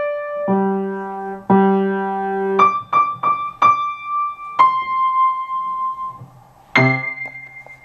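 Piano playing the closing bars of a short piece: two held low notes, a run of short higher notes, a longer note, then a final note with a low bass note near the end, left to ring and fade.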